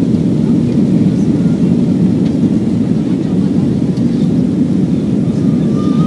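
Steady, loud low rumble of an Airbus A340-300's four CFM56 jet engines and airflow heard from inside the passenger cabin during takeoff.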